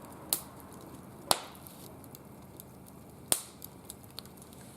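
Wood fire burning in a barbecue grill, giving three sharp isolated crackles over a faint steady hiss.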